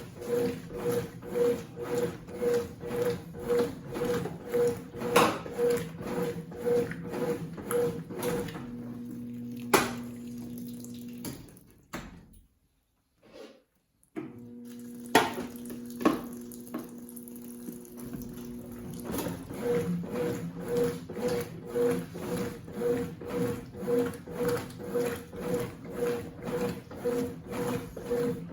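Consul 8 kg washing machine agitating a load, water sloshing back and forth about twice a second. About a third of the way in the agitation stops: a steady hum, a click, a brief near-silent gap, another click and hum. Then the rhythmic sloshing starts again.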